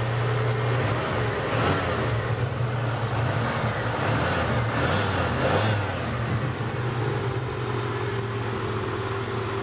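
1986 Oldsmobile 442's 5.0-litre 307 V8 being revved, with rises in engine speed about a second and a half in and again around four to six seconds in, then settling back to a steady idle for the last few seconds. It runs smoothly, with no knocks.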